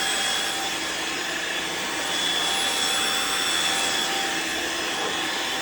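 Riccar R70 floor washer running, a steady suction whine and hiss from its motor and brush rolls as it is pushed across the floor.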